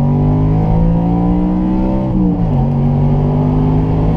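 Audi RS4 B7's 4.2-litre V8 engine and exhaust, its rear silencers bypassed, pulling under acceleration with the pitch climbing slowly, then dropping sharply about two seconds in and running on steadily at a lower pitch.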